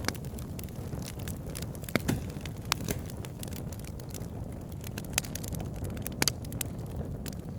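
Wood campfire crackling, with irregular sharp pops and snaps, a few louder than the rest, over a steady low rumble.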